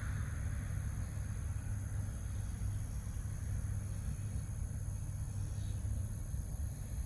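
Road traffic: a steady low rumble, with a passing car's tyre hiss fading away about a second in.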